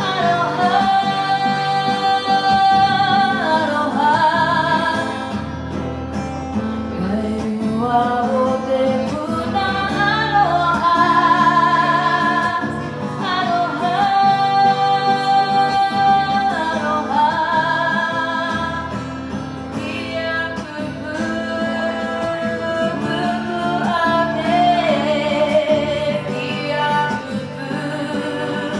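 Live song: a singer holding long notes with vibrato over steady guitar accompaniment.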